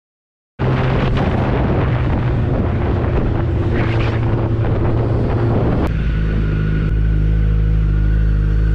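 Motorcycle engine running under heavy wind noise on a helmet microphone while riding, starting about half a second in. About six seconds in the wind noise drops away and a steady low engine note remains, as when the bike slows down.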